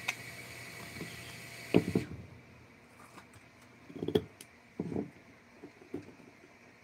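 A steady whirring with a high whine that cuts off suddenly about two seconds in, then a few scattered light knocks and clatters, loudest just before the cut and around four seconds in.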